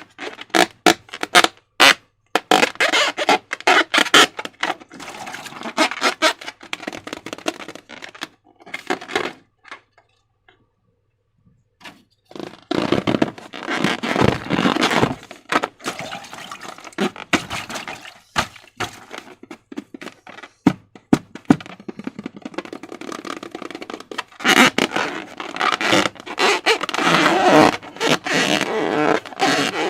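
Slime being squished and worked by hand: a dense run of sticky, wet clicks and crackles. It stops for about two seconds partway through, then carries on.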